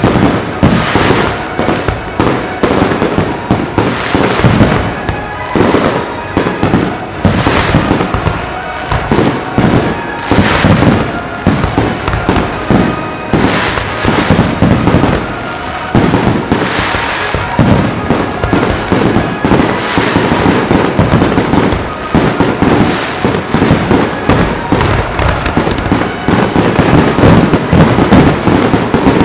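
Fireworks going off in a loud, dense, rapid barrage of bursts and crackle that keeps up without a break.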